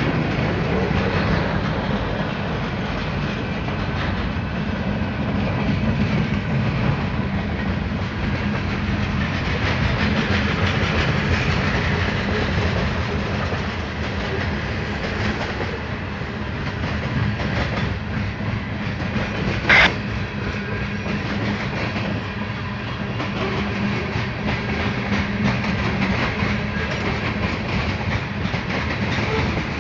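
Freight train cars rolling past, wheels clicking over the rail joints in a steady rumble. A short, sharp high-pitched sound cuts through about two-thirds of the way in.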